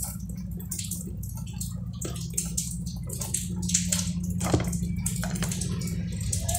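Close-up chewing of toasted bread with mortadella: crisp crunches and wet, smacking mouth sounds, with a steady low hum underneath.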